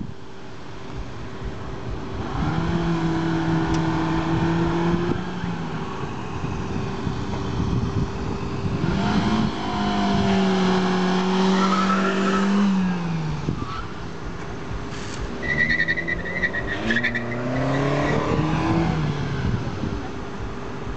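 Four-cylinder car engines of a Chevrolet Aveo 1.2 and a Mitsubishi Galant 2.0 revving hard in first gear. The pitch climbs three times; the first two runs hold flat at the rev limiter before dropping away.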